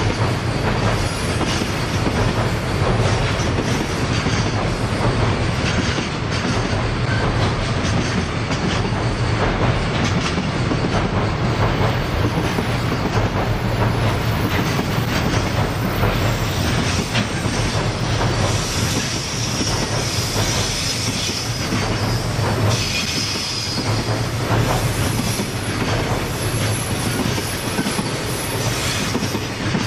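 Container wagons of a freight train rolling past: a steady rumble of steel wheels on the rails, with clicking from rail joints and a high wheel squeal coming and going in the second half.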